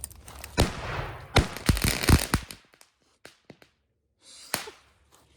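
Firework exploding inside a hollow rotted stump: a quick string of sharp bangs in the first two and a half seconds, then a short hiss and one more bang near the end.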